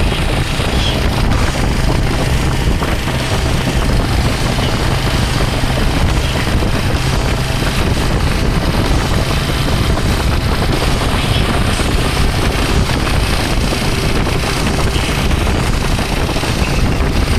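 Motorcycle engine running steadily while riding at speed, with wind rushing over the microphone as a constant hiss.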